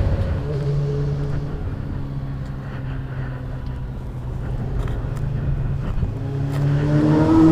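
Honda NC700X parallel-twin motorcycle engine running at a steady cruise under low wind rumble, then revving up and accelerating near the end.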